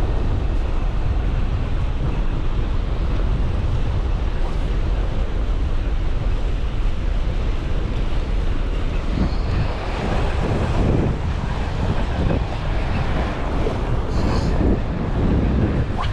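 Wind buffeting the microphone in a steady low rumble, becoming more uneven from about nine seconds in.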